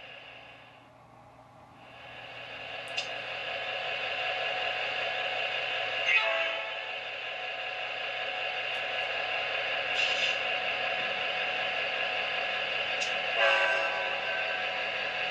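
Synthesized diesel locomotive engine sound from the QSI sound decoder, played through the speaker of an HO-scale Atlas GP39-2 model, dipping near the start and fading back up as the decoder's mute is released, then running steadily. Several short, sharp sounds stand out over it, about three to four seconds apart.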